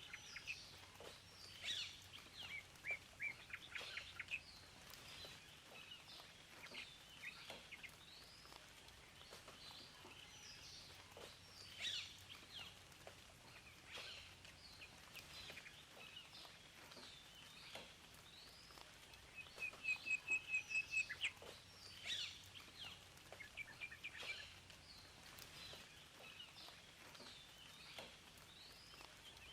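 Several songbirds chirping and calling over a faint steady background hiss. About two-thirds of the way through, a bird gives a louder, rapid trill of about a dozen quick repeated notes.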